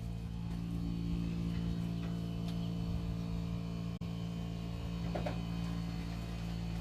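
Steady low hum made of several held tones, from a running motor or machine, with a brief dropout about four seconds in.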